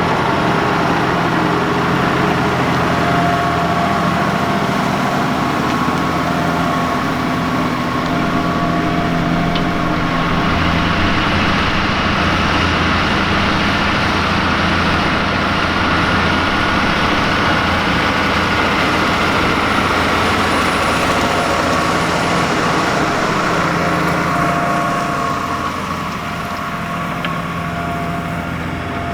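New Holland T7.245's six-cylinder 6.7-litre NEF diesel engine running steadily under load while pulling a five-furrow plough through the ground, turning a little quieter near the end.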